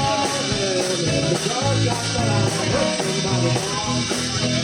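Garage rock band playing live: guitar, bass and drums with a steady beat, in a short instrumental stretch between sung lines.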